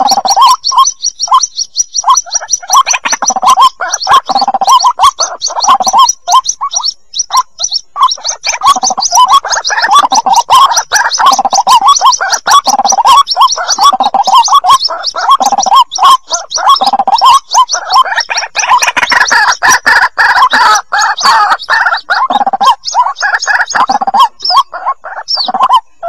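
Calls of white-breasted waterhen chicks, played as a bird-luring recording. A fast string of high, thin peeps runs over lower, gurgling calls that repeat continuously.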